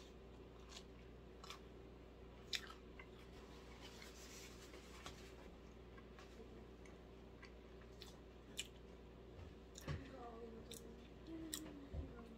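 A person chewing a bite of cheese pizza with his mouth closed. It is very faint: scattered soft mouth clicks over a low steady room hum, with a brief soft hummed 'mm' near the end.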